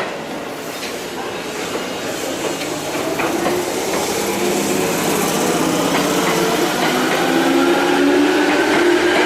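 Electric train accelerating, its motor whine made of several tones that rise steadily in pitch as it gathers speed and grows louder, over the rumble of the train on the rails.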